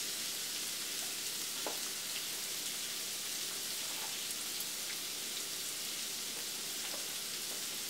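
Ground sausage and diced bell peppers sizzling steadily in a skillet, a fine even crackle. A couple of faint ticks come as chopped avocado is scraped in from a plate with a plastic spatula.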